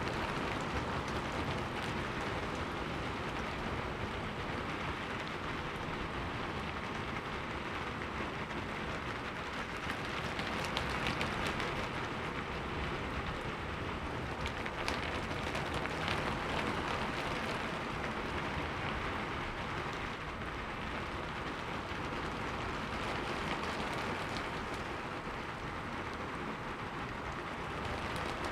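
Heavy rain pouring steadily, a dense hiss with many individual drops ticking close by.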